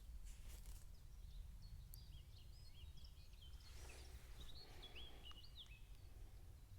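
Faint birdsong: a quick run of short, high chirping notes in the middle, over a steady low outdoor rumble.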